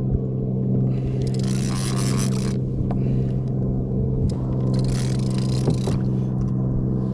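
A steady mechanical hum made of several even tones, with rushing, scraping noise coming in about a second in, again around five seconds in, and once more at the end.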